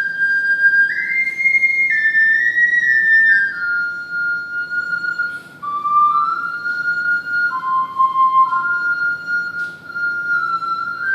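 Ceramic triple ocarina played solo: a slow melody of held, flute-like notes that steps down through the middle of the phrase and climbs back near the end.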